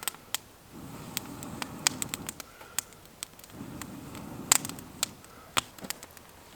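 Wood fire crackling, with irregular sharp pops of burning firewood, the loudest about four and a half seconds in, over a low, soft rush.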